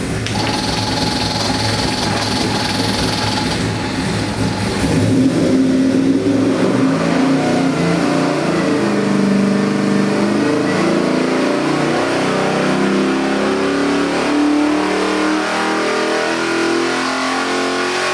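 Fuel-injected 441-cubic-inch LS stroker V8 running on an engine dyno, low and rough at first, then rising in pitch and loudness about five seconds in and holding at the higher speed.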